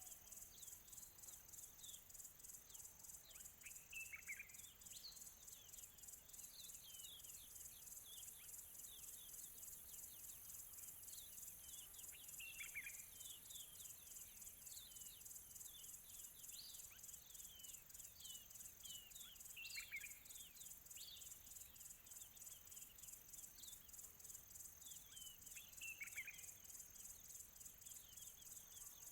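Faint distant crickets chirping in a steady, fast, high-pitched pulse, with many short bird chirps over them. A louder falling bird call comes four times, about every seven seconds.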